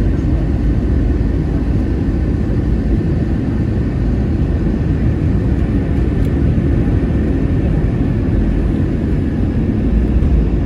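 Cabin noise inside an Airbus A321-231 airliner: a steady, loud low rumble of its IAE V2500 engines and the airflow, with a faint steady whine higher up.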